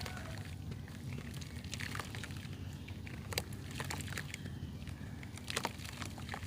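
Clumps of dried mud being crumbled by hand, giving irregular small crackles and snaps over a steady low hum.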